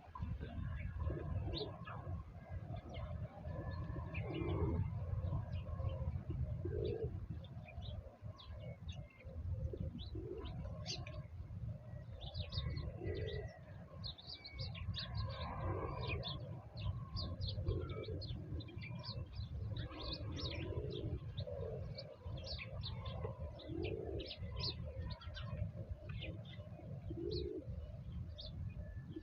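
Doves cooing every couple of seconds while small songbirds chirp over them in quick, short notes, with a steady low rumble underneath.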